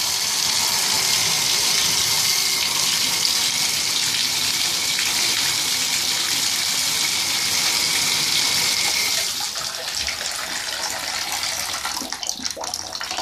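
Water running hard from a shower set on a Delta shower valve, a steady rushing spray into the tub. About nine seconds in the flow gets quieter and more uneven.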